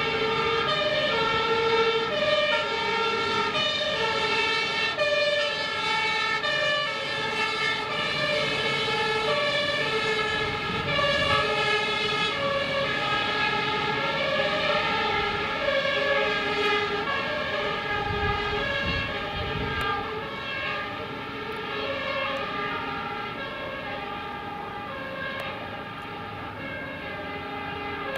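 Fire engine and police sirens on emergency response, several two-tone sirens sounding together, each alternating between two pitches. They grow fainter in the second half as the vehicles move away.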